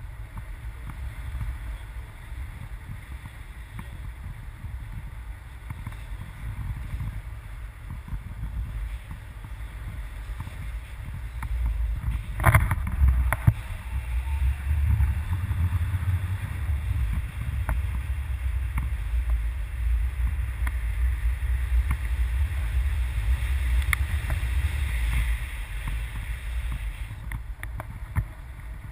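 Wind buffeting the microphone in gusts, a low rumble that gets stronger about halfway through, with one short sharp knock or rustle just before.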